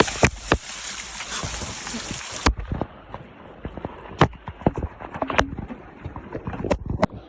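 Water gushing and splashing from stone spouts, cutting off abruptly about two and a half seconds in. It is followed by a quieter stretch with scattered sharp clicks and knocks.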